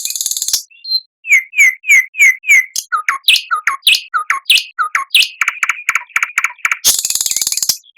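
Songbird singing. It opens with a high, rapid, buzzy trill, then gives a series of loud, separate, falling whistled notes at about three a second, which turn into alternating high and low notes and then a quicker run. The buzzy trill comes back near the end.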